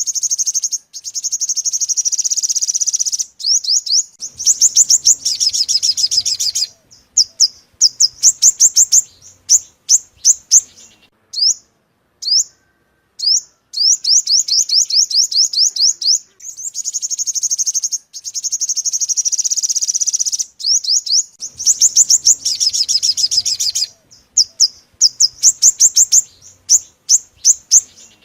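A yellow-bellied sunbird singing: high, rapid trills and runs of sharp chip notes in quick succession, broken by short pauses. The same sequence of phrases repeats about every 14 seconds, as a looped lure-call recording.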